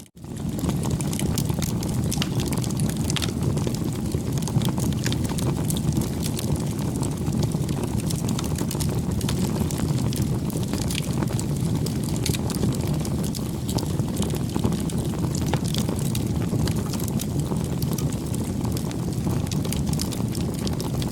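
Campfire burning: a steady low rush of flames with frequent small crackles and pops. The sound cuts out for a split second at the very start.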